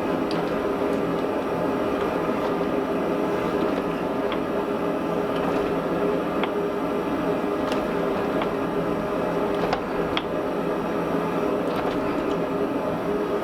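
A lit forge running with a steady roar that carries a few held tones, with a handful of faint ticks scattered through it.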